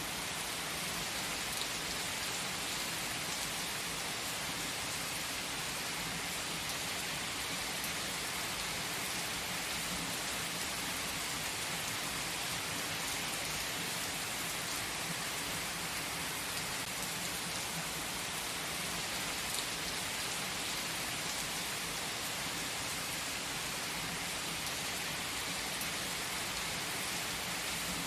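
Steady rain falling on a surface, an even hiss that does not change.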